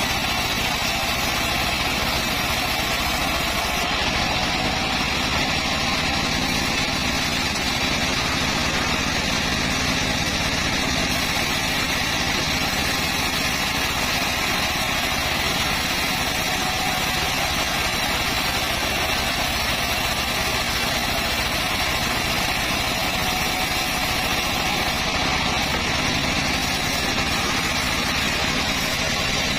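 Two-stroke chainsaw running steadily, cutting acacia wood.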